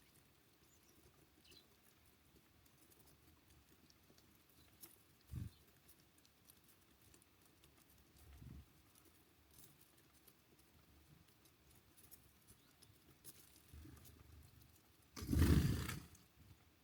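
Small birds at a feeder: a few scattered soft knocks and taps, a faint short chirp, and near the end a loud rustling burst about a second long.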